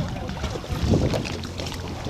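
Wind buffeting the microphone over open water around a small boat, with a steady low rumble and a few light knocks and splashes.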